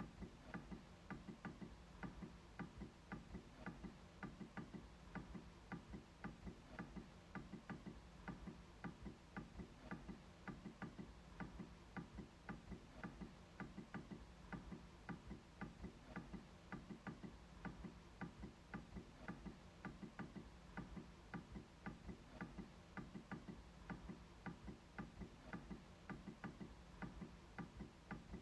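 MacBook trackpad being clicked over and over, a faint, steady run of short clicks a few times a second.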